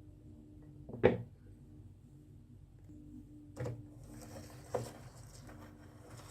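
Toys knocking on a wooden marble-run track: one sharp knock about a second in and two smaller knocks later, with a rolling rattle starting about four seconds in.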